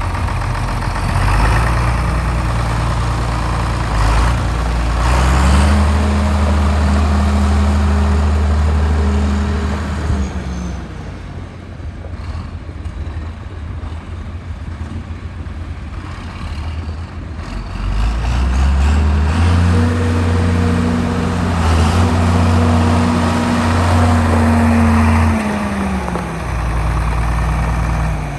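John Deere 4430 tractor's six-cylinder turbocharged diesel engine running. It is revved up and held for about five seconds, drops back to idle, then is revved and held again for about six seconds before settling back down.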